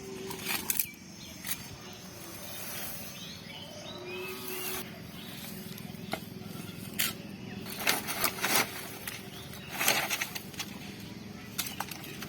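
Birds chirping faintly over a steady low background hum, with a few short rustling or knocking noises in small clusters.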